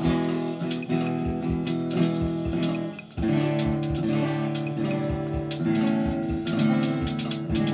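Instrumental guitar music with a steady pulse, dipping briefly about three seconds in before carrying on.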